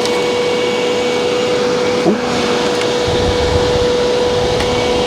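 Electric fan running loud, a steady whine over rushing air. A low rumble joins about three seconds in.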